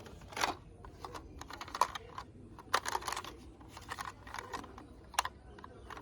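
Plastic toys being handled: irregular short clicks and clatters, several a second.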